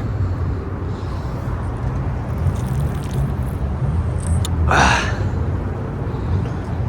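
Car engines and traffic making a steady low rumble, with a short hiss about two-thirds of the way through.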